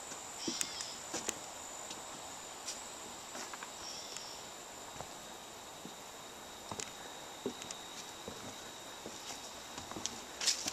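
Insects trilling steadily at a high pitch, with scattered footsteps and small snaps on a woodland trail and a few brief high chirps.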